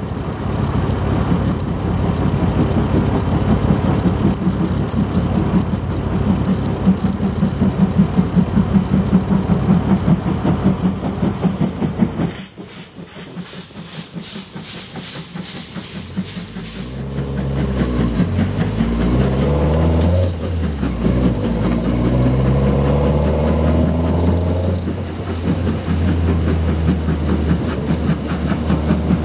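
A steam-hauled train runs along the adjacent track with rhythmic rail clatter. A car engine runs alongside it with a pulsing exhaust, drops away suddenly about a third of the way in, then revs up through rising pitches as the car accelerates beside the train.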